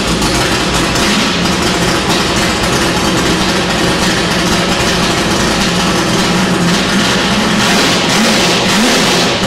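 370-cubic-inch Windsor V8 on twin carburettors running steadily on its first start, with a couple of brief rises in pitch near the end.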